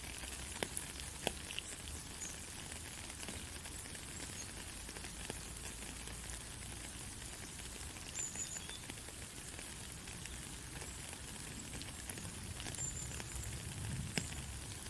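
Rain falling steadily, an even hiss with scattered sharp drop impacts.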